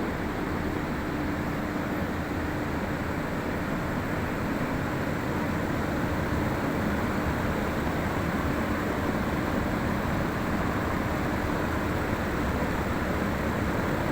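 Industrial exhaust fan running steadily, a constant rush of moving air with motor noise.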